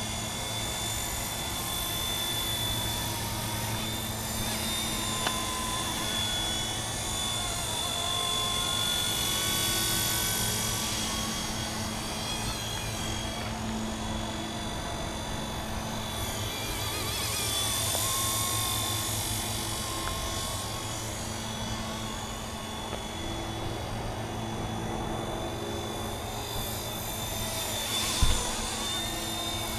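MD 500 helicopter flying: a steady low rotor beat under a high whine, with the sound swelling and easing a few times as it moves about. There is a brief knock near the end.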